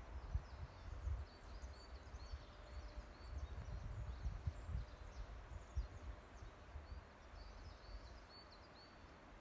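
Small birds chirping in the forest: many quick, high, twittering notes, thinning out in the middle and picking up again near the end, over an uneven low rumble.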